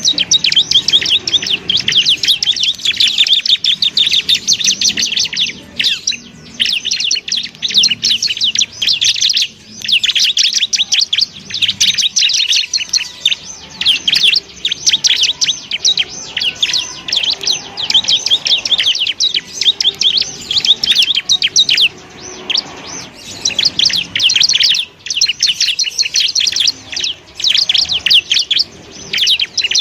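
Bar-winged prinia (ciblek) singing a rapid, high chattering trill in long runs broken by short pauses.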